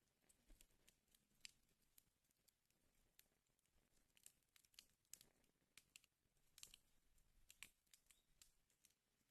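Wood fire crackling in a fireplace: faint, irregular snaps and pops at an uneven pace, a few of them sharper than the rest.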